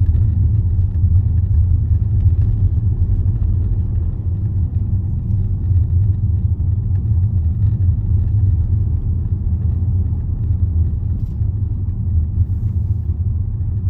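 Steady low rumble of road and engine noise inside a Range Rover's cabin while it is driven along a road.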